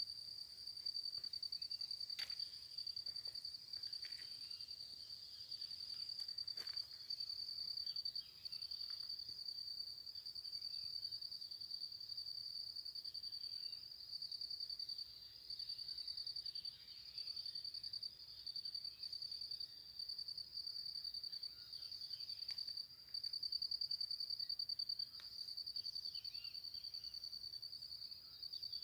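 A continuous high-pitched insect trill, rapidly pulsing and broken by short pauses every few seconds. Faint, brief bird chirps sound underneath.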